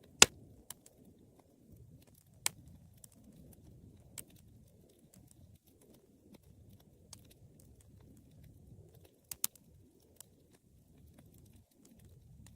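Wood fire crackling: a low, steady rumble of flames with sharp pops scattered through it. The loudest pop comes just after the start, others follow about two and a half and four seconds in, and a quick double pop comes about three quarters of the way through.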